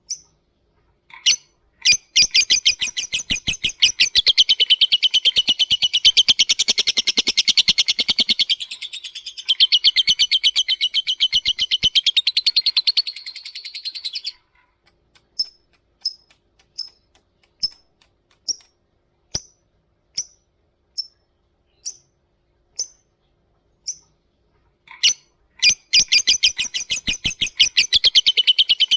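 Lovebird singing: a long, fast chattering trill (ngekek) lasting about twelve seconds, then a string of single sharp chirps (ngetik), about one a second. The fast trill starts again near the end.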